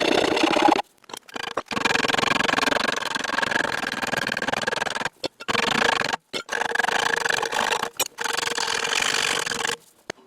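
A motor-driven tool grinding the nicks off a steel handle rod: steady grinding noise over a motor hum. It comes in several short stretches that cut off abruptly.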